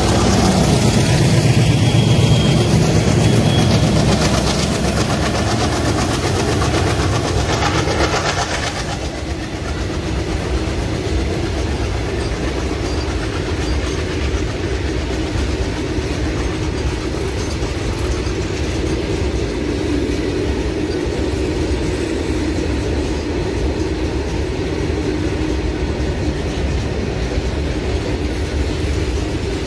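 Alco diesel locomotives of a freight train passing close, their engines loud for the first nine seconds or so. Then a long rake of loaded open freight wagons rolls past steadily, wheels clacking over the rail joints.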